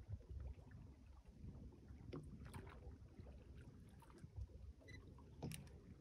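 Near silence on a small fishing boat: a faint low rumble of wind and water, with a few light clicks and knocks.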